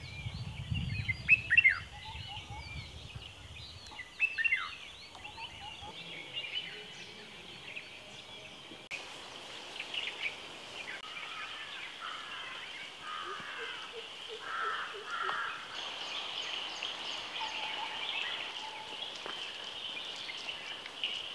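Birds calling: quick falling chirps in the first few seconds over a low rumble. From about nine seconds a steady high-pitched drone takes over, with scattered calls over it.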